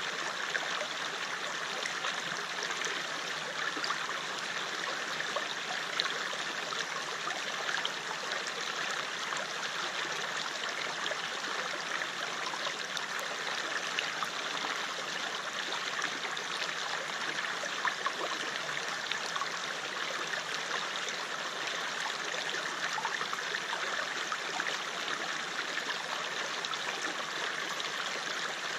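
River water flowing over stones: a steady rushing and babbling with small splashes scattered through it.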